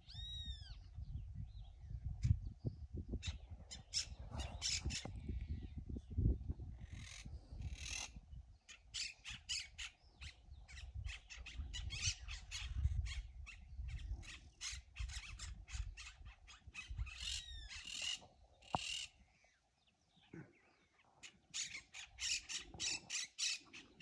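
Birds squawking in runs of short, harsh, rapidly repeated calls, with an arching whistled call near the start and another about two-thirds through. Wind rumbles on the microphone underneath and dies away about three-quarters of the way in.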